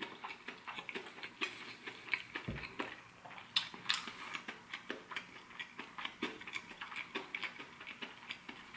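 A person chewing crispy fried chicken close to the microphone: irregular small crunches and mouth clicks, several a second.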